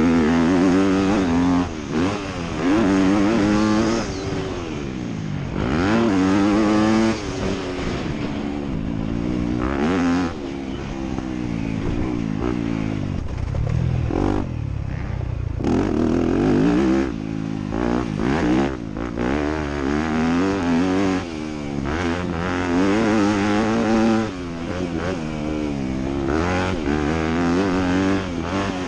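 Motocross dirt bike engine revving hard and repeatedly rising and falling in pitch as the throttle is opened and chopped through the gears, with brief drops where the throttle is shut off, including a longer lull about halfway through.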